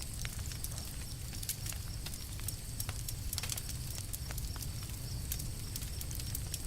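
Campfire crackling: wood burning with frequent irregular sharp pops and snaps over a steady low rumble of the flames.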